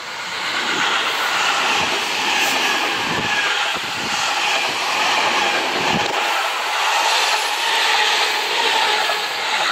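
Seibu 6000 series electric commuter train passing close by at speed: a loud, steady rush of wheel-on-rail noise that builds over the first second, with a few low thumps from the wheels.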